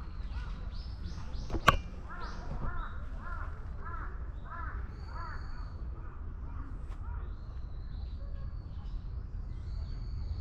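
A bird calling a quick series of about eight short calls, about two a second. A single sharp click comes just before, the loudest sound.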